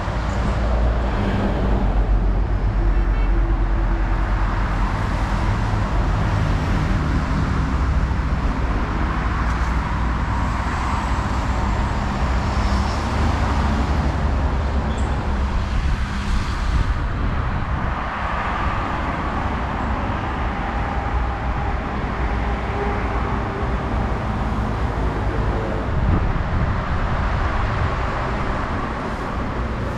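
Road traffic with vehicle engines running, a steady low engine hum throughout.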